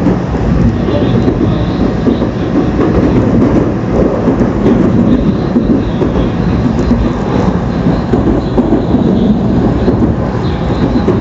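Tokaido Shinkansen train running, a loud, steady low rumble and rush with no breaks.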